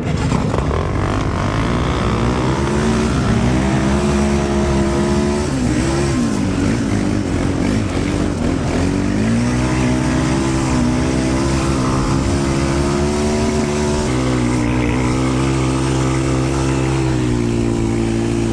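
Quad (ATV) engines launching at a race start: the nearest engine revs up and shifts up through the gears several times, with its pitch stepping down at each shift, over the noise of other quads running alongside.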